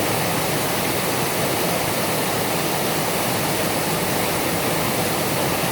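Heavy rain falling in a steady, dense hiss that never lets up.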